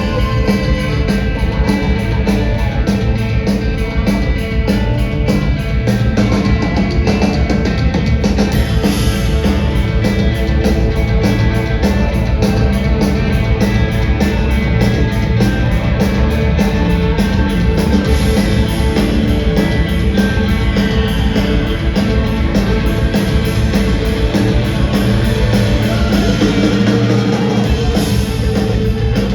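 Live rock band playing a loud, fast jam on electric guitars and a drum kit, with a steady driving beat.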